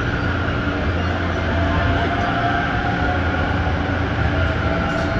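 A JR East E257 series electric train rolls slowly past on the next track beside a standing JNR 185 series train, giving a steady rumble with a low hum.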